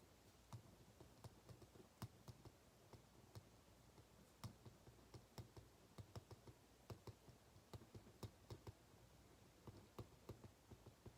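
Faint, irregular clicks and taps, a few a second, over quiet room tone.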